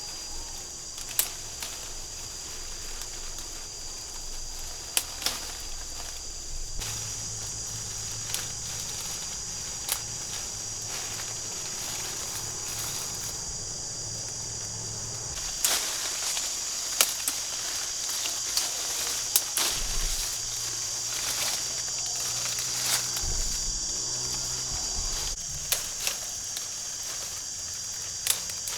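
Steady high-pitched insect chorus, with sharp clicks and snaps now and then.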